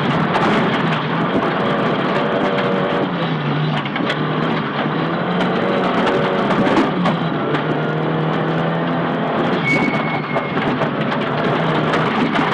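Nissan Silvia S15 rally car's engine, heard from inside the car at full stage pace, revving up and dropping back several times through gear changes, with road noise and occasional sharp knocks.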